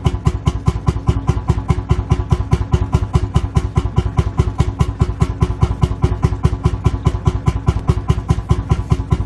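Lanz Bulldog tractor's single-cylinder hot-bulb two-stroke engine idling, an even beat of about six strokes a second.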